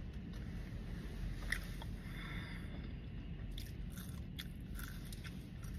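A person biting and chewing food close to the microphone, with scattered small crunches and mouth clicks.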